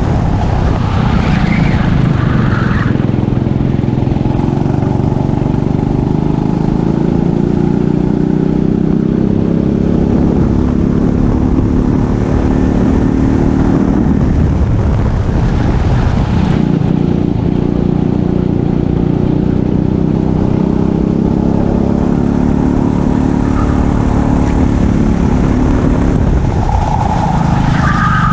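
A racing kart's engine running hard under throttle. Its pitch climbs steadily as it accelerates, drops briefly about 15 seconds in as it comes off the throttle, climbs again, and drops once more near the end.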